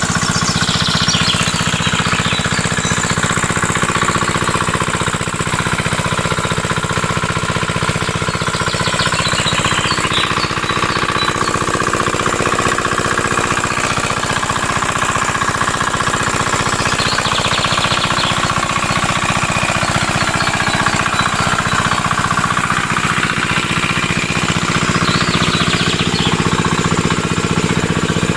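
Miniature engine of a DIY water-pump machine running steadily with a fast, even knocking beat.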